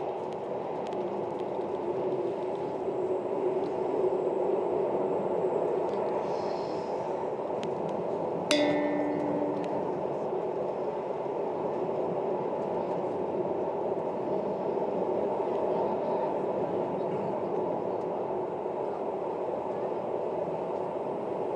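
Train running at speed, heard from the driver's cab: a steady rumble of wheels on the rails that carries on as the train runs into a tunnel. About eight seconds in there is a sharp click followed by a brief low tone lasting about a second.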